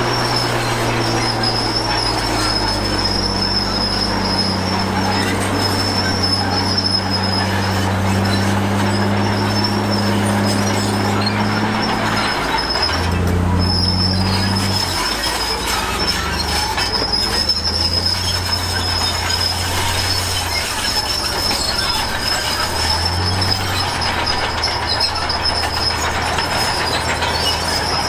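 Komatsu D53P crawler bulldozer working: the diesel engine runs under load, its pitch dropping and rising a few times partway through, while the steel tracks give off a steady high squeal.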